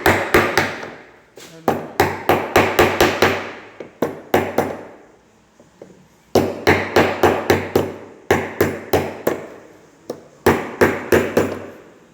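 Hammer blows on a ceiling-fan part, in quick runs of about four or five strikes a second separated by short pauses, each strike with a brief ring: a bent part being knocked straight.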